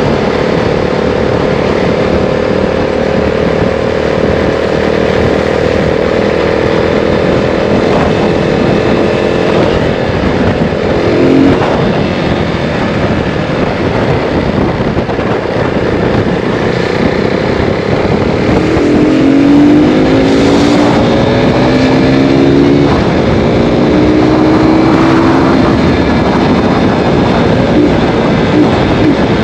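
KTM RC 390 single-cylinder engine, fitted with a K&N performance air filter, running under way. Its pitch holds steady, drops about 11 seconds in, and from about 19 seconds climbs in a series of short rising steps, each falling back as the gears are shifted up.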